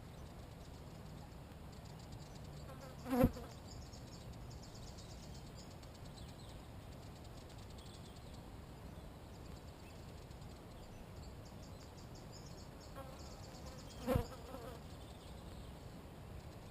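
A flying insect buzzing close past the microphone twice, each pass a brief swell of a low buzz that rises and dies away within a fraction of a second, the first about three seconds in and the second near the end. Faint birdsong carries on underneath.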